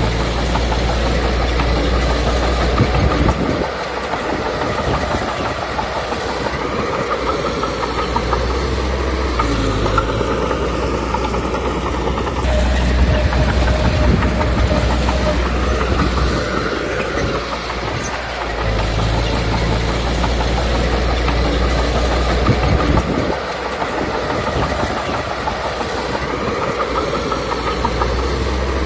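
Komatsu D21P crawler bulldozer working: its diesel engine runs under varying load, the low rumble swelling and easing several times, over a continuous clanking clatter of steel tracks.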